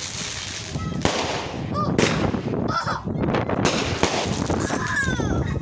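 Fireworks going off: several sharp bangs over continuous crackling, with a few short gliding tones in between.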